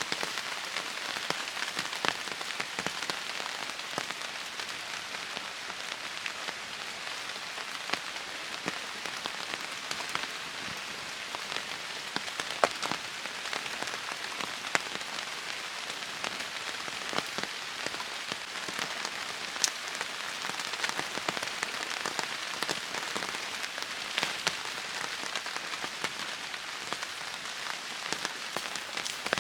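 Steady heavy rain falling on surfaces, with many individual drops pattering and ticking through the constant hiss.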